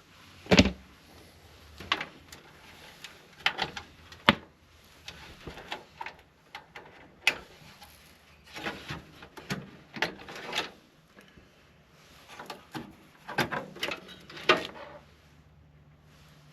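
Irregular clicks, knocks and light rattles of computer hardware being handled and taken apart, about a dozen sharp strokes with quieter handling between.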